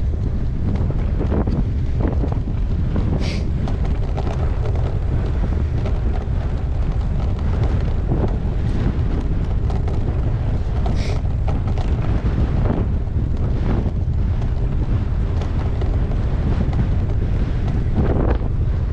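Wind buffeting the microphone of a GoPro action camera as a bicycle is ridden, a steady low rumble with a few sharp clicks and rattles.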